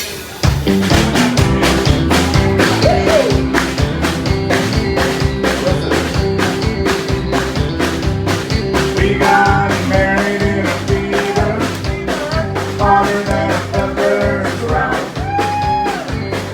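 Live band starting an upbeat country tune: drums keep a steady quick beat over bass and guitar, and a higher melodic line comes in about nine seconds in.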